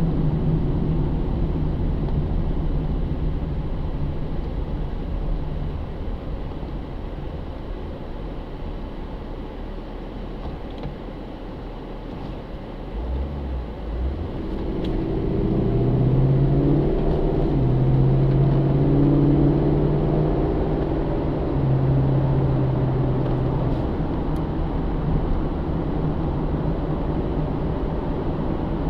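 A 2009 Pontiac G8 GT's 6.0-litre V8 with cold air intake, heard from inside the cabin over tyre and road noise. The engine note fades as the car eases off. About halfway through it picks up again under acceleration, is loudest for a few seconds, then settles to a steady cruise.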